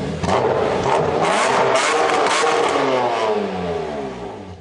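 Car engine revving up from idle, holding high, then easing back down and fading out near the end.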